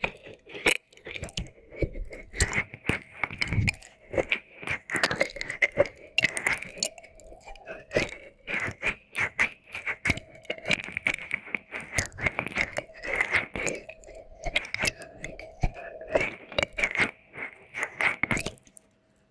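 Wet mouth sounds and licking: a dense, uneven run of wet clicks, smacks and pops that stops just before the end.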